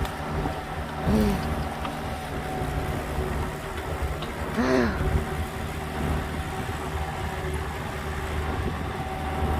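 Small excavator engine idling steadily, with two brief sounds that rise and fall in pitch about one and five seconds in.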